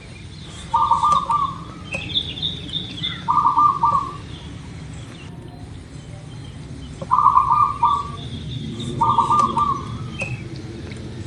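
Zebra dove (perkutut) cooing: four short, staccato cooing phrases a second or two apart. Other small birds chirp higher in the background.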